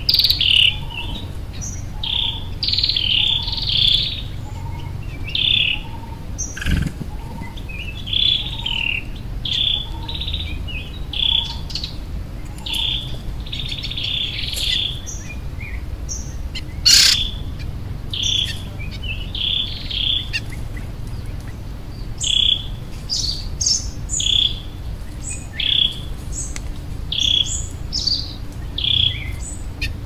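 Wild birds singing: short chirping phrases repeated about once a second, with a soft lower note repeating through the first part. A single sharp click sounds about seventeen seconds in.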